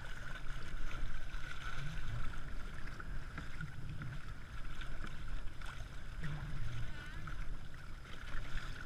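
Wind buffeting the microphone and water moving around a kayak, with a steady high hiss and a few low bumps.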